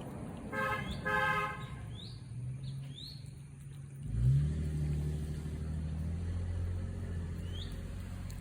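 A vehicle horn sounds two short toots, then a vehicle engine starts up about four seconds in and keeps running. A few short, high bird chirps come over it.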